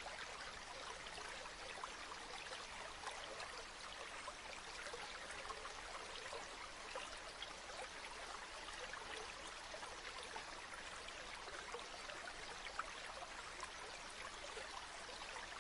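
Gently flowing river water: a faint, steady rush with small trickles and splashes through it.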